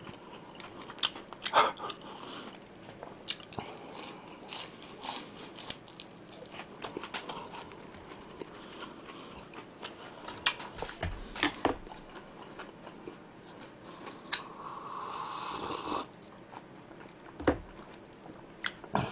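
Close-up crunching and chewing of battered fried shrimp, with sharp crunches of the crisp coating scattered through, loudest about a second and a half in.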